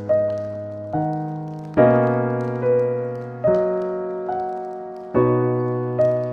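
Slow, soft piano music: single notes and chords struck about once every second or so, each ringing out and fading before the next.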